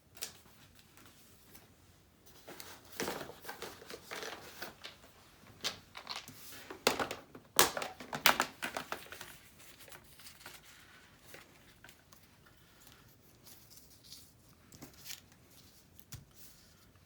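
Paper rustling and crinkling as loose craft paper pieces are handled, with a run of louder scrapes and crackles from about three to nine seconds in, then faint rustles.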